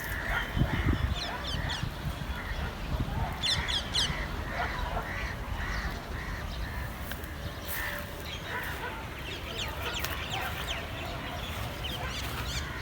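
Birds chirping and calling: many short, high chirps over a row of shorter calls repeating about twice a second.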